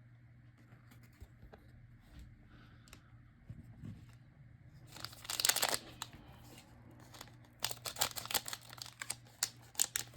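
Foil trading card pack wrapper torn open with one loud rip about halfway through, followed by a run of sharp crinkling and crackling as the wrapper and cards are handled.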